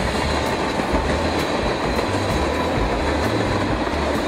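Freight train rolling past at a steady speed: a continuous rumble and rush, with wheels clicking over rail joints about once a second.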